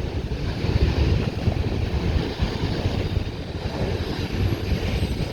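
Freight train of loaded grain hopper cars rolling past, a steady low rumble of wheels on rail, with wind buffeting the microphone.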